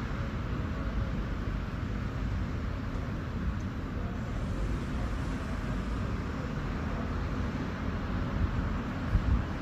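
City street ambience: a steady low rumble of road traffic, with a couple of brief louder bumps near the end.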